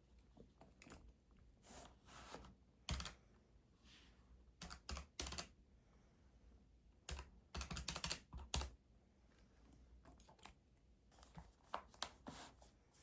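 Keys tapped in quick bursts: a few clusters of sharp clicks with pauses between, over faint room tone.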